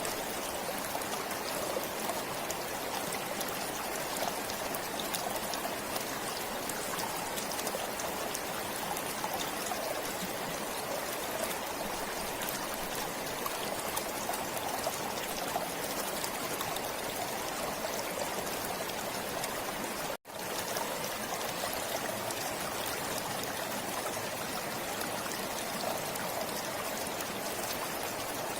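A forest stream flowing, a steady rush and trickle of water. The sound drops out for an instant about two-thirds of the way through, then carries on unchanged.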